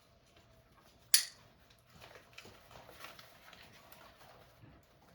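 A sharp click about a second in, then soft irregular rustling and handling noises as a life vest is put on and its waist straps adjusted.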